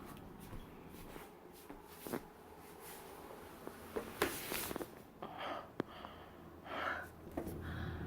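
Quiet room with a person's faint breaths and a few soft clicks.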